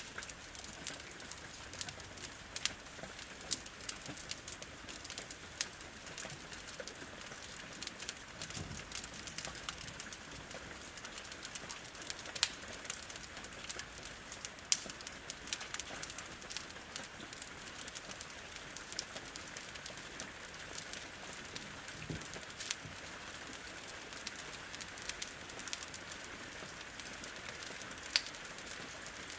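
Steady hiss of rain against a window, with frequent sharp crackles and pops from a wood fire, and two low thuds, one about a third of the way in and one about three quarters through.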